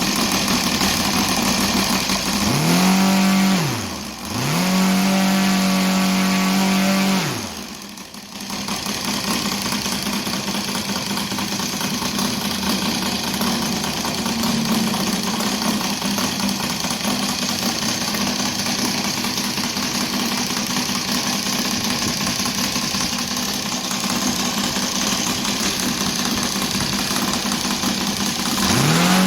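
Saito FG33 R3 three-cylinder four-stroke radial model aircraft engine breathing through a homemade copper-tube ring exhaust. It is run up to high throttle twice, each time rising quickly, holding a steady high note for a few seconds and falling back. It then runs steadily at a lower speed for the rest of the time, and starts to rise again at the very end.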